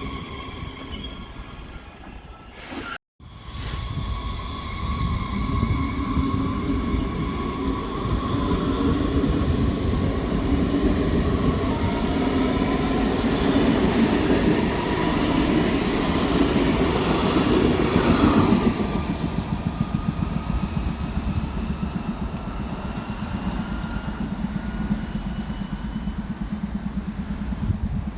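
Train running through the station, with a rumble and high squealing or whining tones that build to a peak about two-thirds of the way through and then ease off. There is a brief gap of silence about three seconds in.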